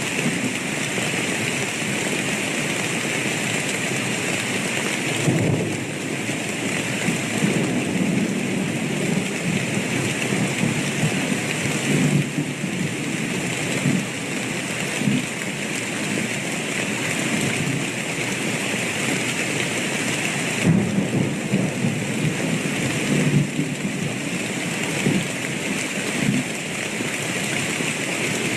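Steady rain falling, with rolls of thunder that rumble up and fade several times, first about five seconds in and again towards the middle and past twenty seconds.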